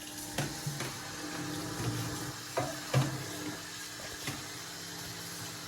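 Chicken frying in hot oil in a pot, a steady sizzle, with a few sharp knocks of a utensil against the pot.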